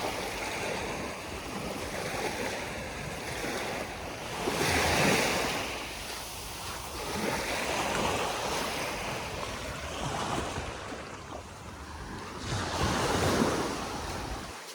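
Sea waves washing onto the beach, the surf swelling and easing every few seconds, loudest about five seconds in and again near the end.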